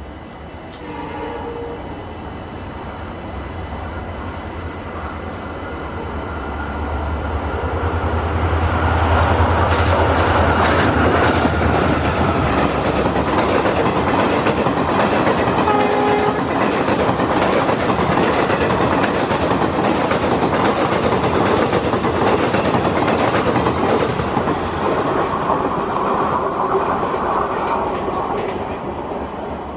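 Janshatabdi Express passing at speed: a low rumble builds about six seconds in, then the coaches run by with a fast, dense clickety-clack of wheels over rail joints, fading near the end. A short horn note sounds near the start.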